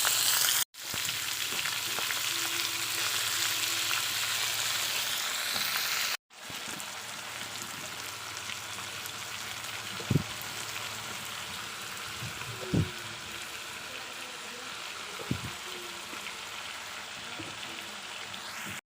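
Waterhen meat frying in a dried-chilli mixture, a steady sizzle that drops out briefly twice. It is softer after about six seconds in, with a few short knocks of a stirring utensil in the second half.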